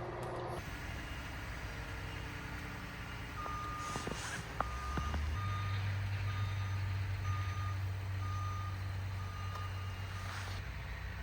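A vehicle's electronic warning beeper sounding a steady high beep about twice a second. Under it an engine starts about halfway through and keeps running at a low idle.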